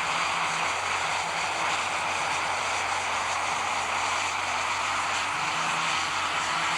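Super stock pulling tractor's engine running hard during a pull, a steady loud noise.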